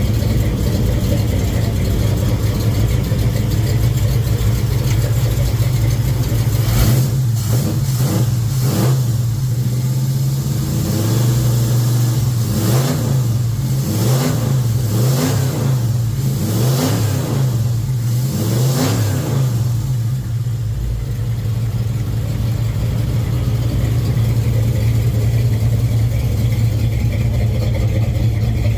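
Car engine running at idle, then revved in a string of short throttle blips that rise and fall in pitch, from about a quarter of the way in until about two-thirds through, before settling back to a steady idle.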